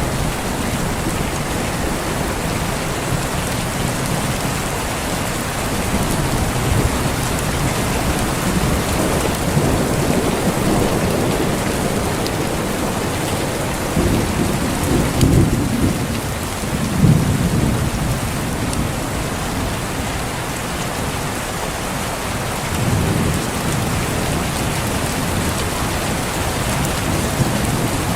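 Heavy rain falling steadily, with low rolls of thunder rising out of it about halfway through and again near the end.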